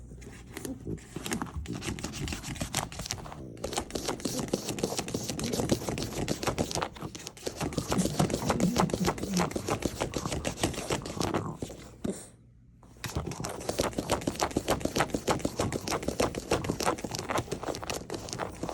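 French bulldog scrabbling under a sofa: rapid, irregular scratching and rustling, stopping for about a second roughly two-thirds of the way through, then starting again.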